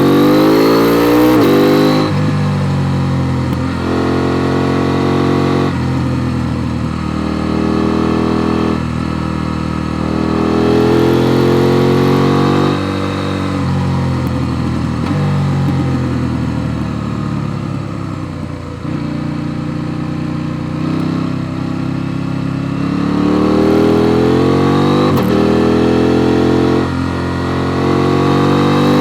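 KTM Duke 890 R's parallel-twin engine pulling hard through the gears. Its pitch climbs and then drops sharply at each upshift, and the rider eases off through the middle so the engine note sinks. Near the end it accelerates again with the pitch rising.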